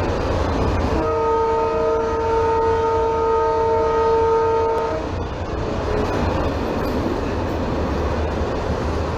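Train horn sounding a steady chord of several notes for about four seconds, starting about a second in. Under it runs the continuous rumble and clatter of a moving train.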